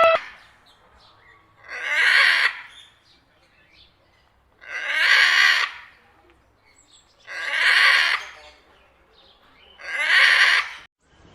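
A bird screeching four times. Each screech is harsh and lasts about a second, and they come roughly every two and a half seconds.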